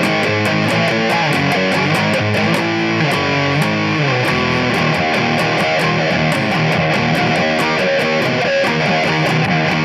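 Ibanez S470 electric guitar played through a fuzz pedal and a looper: layered notes and riffs over a repeating loop, at a steady loud level. A fast regular high tick, about four or five a second, runs along with it.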